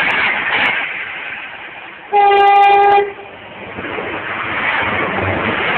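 A train horn blasts one steady note lasting about a second, about two seconds in, from the Enterprise express as it comes up to the crossing. Its rushing, rumbling noise then builds as it arrives and passes.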